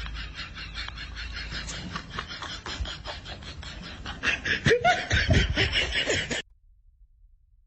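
A person laughing in quick breathy pulses, getting louder about four and a half seconds in, then cutting off suddenly.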